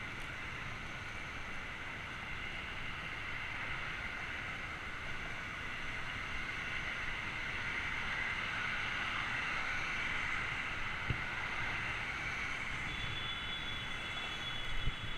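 Steady wind and rolling noise from a bicycle ride picked up by a GoPro camera, with a couple of short knocks and a faint high whine near the end.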